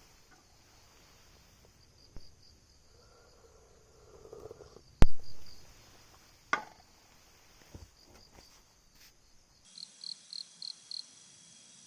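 Crickets chirping in short, high, pulsing trills. A single sharp knock about five seconds in is the loudest sound, with a few softer clicks and rustling around it.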